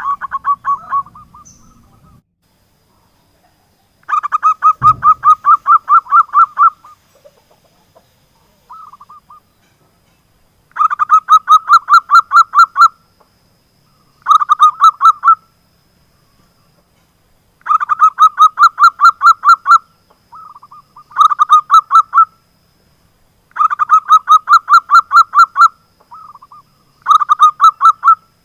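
Zebra dove (perkutut) song: runs of fast staccato coos, about five or six notes a second, in loud bursts of one to two seconds separated by short pauses, with a few brief fragments in between. The song is used as a lure to set other perkutut calling. A single low thump about five seconds in.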